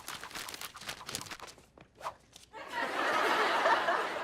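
Quick crinkling of paper being folded for about a second and a half, then, after a short pause, a studio audience bursts into laughter.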